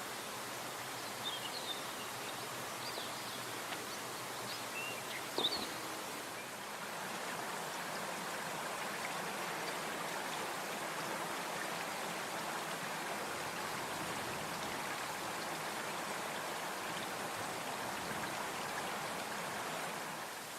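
Steady rush of running water from a stream. A few brief high chirps, like small birds, come in the first few seconds, and the rushing grows a little louder about six seconds in.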